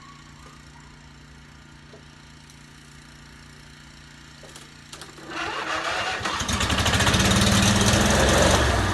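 A lawn tractor's engine being cranked over about five seconds in, after a dose of fuel ('go-go juice'), running up fast and uneven and nearly catching, then dying away without starting.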